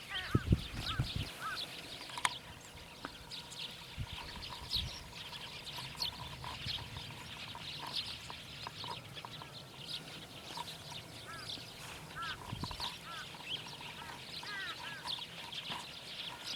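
Many birds calling: short chirping notes repeat over and over, with a few low thumps in the first couple of seconds.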